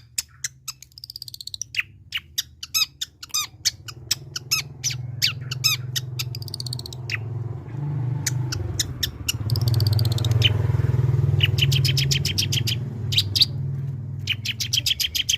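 Long-tailed shrike (cendet) singing in short, sharp, rapid notes, with a denser run of notes after the middle. A low rumble builds beneath the song and fades near the end.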